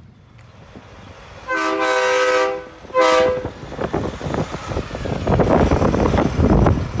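Vehicle horn in a car-and-truck caravan blasting twice, one long blast and then a short one, with a chord-like, air-horn tone. A vehicle's engine and road noise then build up loudly as it passes.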